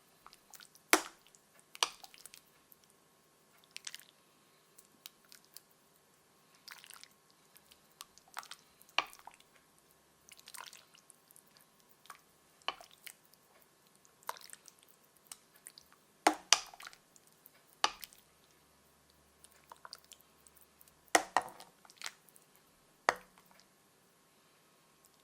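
Food and kitchen utensils being handled: irregular sharp clicks and taps, about fifteen over the stretch, a few much louder than the rest, over a faint steady hum.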